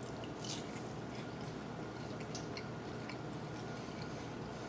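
A person chewing a mouthful of panko-breaded chicken katsu, quietly, with scattered small clicks.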